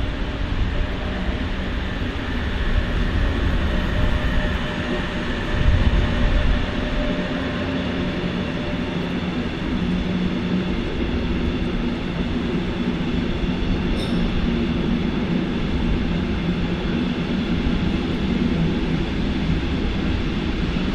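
A train moving through the station: a steady loud rumble with a low electric hum, swelling briefly about six seconds in.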